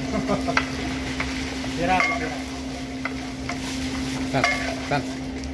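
Raw krupuk mawar crackers sizzling as they fry in a large wok of hot oil, stirred with a long stick and a metal scoop, with scattered scrapes and clinks against the wok. A steady low hum runs underneath.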